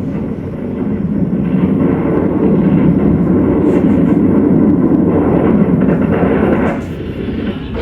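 Steady, loud engine rumble of military vehicles or aircraft, dropping in level about seven seconds in.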